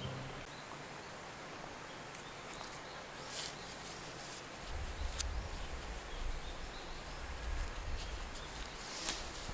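Quiet outdoor ambience with faint bird and insect sounds. A few light clicks come through, and a low rumble starts about halfway through.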